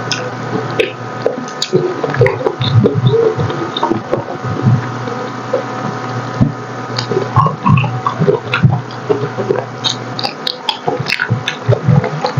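Close-miked wet chewing and mouth smacking on soft, gelatinous braised pork hock: irregular squelches and little clicks over a steady low hum.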